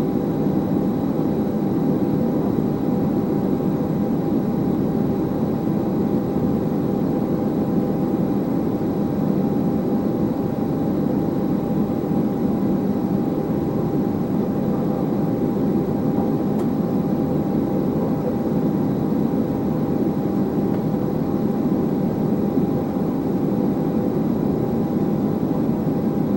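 Airbus A320 taxiing, heard from inside: a steady hum of the jet engines at idle and the aircraft's air and equipment noise, with a few faint steady whining tones over it.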